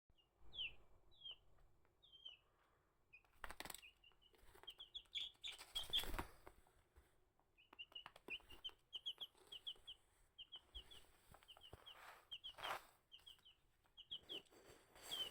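Baby chick peeping: short high chirps that drop in pitch, a few spaced apart at first, then in quick runs. A few brief rustling noises come among the peeps.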